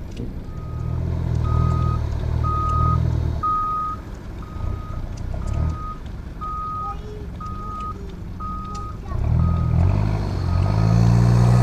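A vehicle's reversing alarm beeping steadily, about one and a half beeps a second, over a heavy engine that revs up hard twice, near the start and again near the end.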